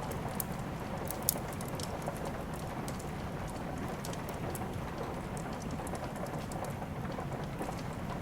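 Steady rain with a wood fire crackling, scattered sharp pops over the rain's even hiss, one louder pop about a second in.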